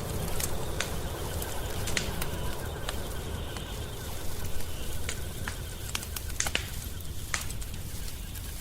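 Wood fire crackling in a fireplace, with sharp pops of burning wood scattered irregularly over a low steady rumble.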